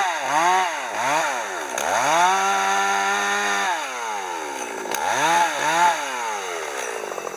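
Chainsaw engine revving up and down repeatedly, held at high revs for about a second and a half in the middle, as when cutting firewood. It stops abruptly at the end.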